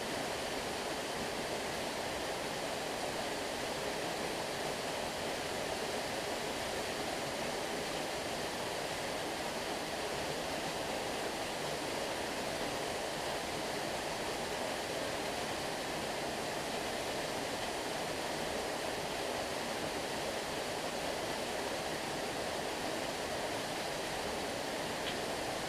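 Stream water flowing and rushing steadily, an even, unbroken wash of sound.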